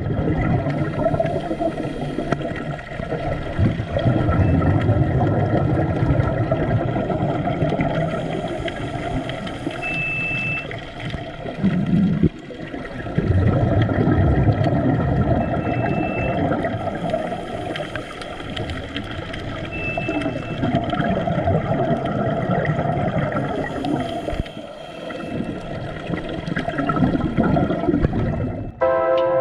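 Underwater sound of scuba divers in the sea: bubbling and rushing water from exhaled breath, swelling and fading every few seconds, with three short high beeps.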